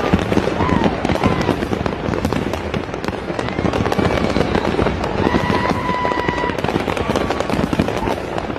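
Many fireworks and firecrackers going off at once: dense, continuous rapid popping and crackling. A held, whistle-like tone sounds for about a second, a little past the middle.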